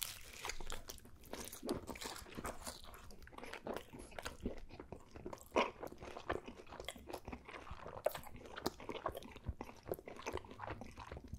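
Close-miked chewing of a mouthful of pepperoni pizza: irregular crunching and crackling bites, many small clicks in quick succession.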